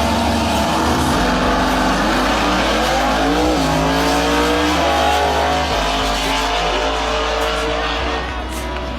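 A car engine accelerating. Its note holds steady, then rises in pitch, drops back about three and a half seconds in as at a gear change, and rises again before holding steady.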